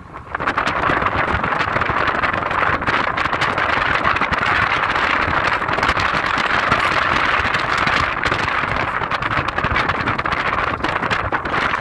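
Car driving along an unpaved forest road: steady road and wind noise with many small clicks, after a brief drop right at the start.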